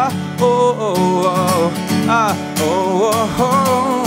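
Live acoustic song: strummed acoustic guitar under a sung melody line that bends and holds its notes, between lines of the chorus.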